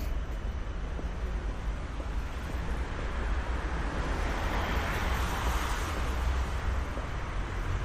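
Rainy, windy city street ambience: a steady low wind rumble on the microphone, with a rushing hiss that swells and fades about five seconds in.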